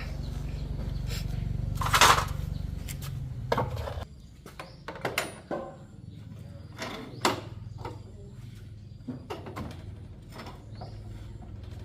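Workshop handling sounds: a steady low machine hum that stops about four seconds in, then scattered clinks and knocks, with one louder short burst of noise about two seconds in.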